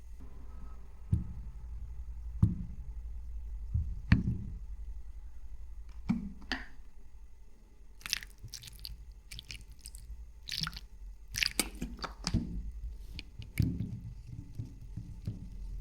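A person biting and chewing food close to the microphone: wet, squishy chewing with irregular sharp clicks and crunches, busiest in the second half, over a low steady hum.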